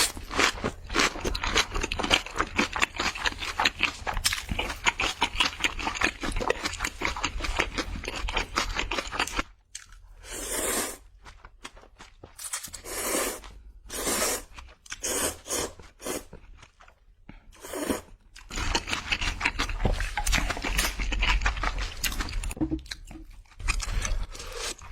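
Crunchy food being bitten and chewed close to the microphone: dense crackling crunches for about nine seconds, a run of short separate crunches and scrapes with pauses between them, then steady crunching again.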